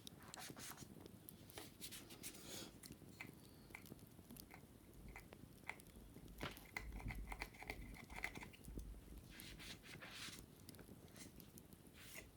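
Wicker baskets being scratched and rubbed during cleaning. The scratching comes in short patches over scattered sharp crackles like those of a wood fire.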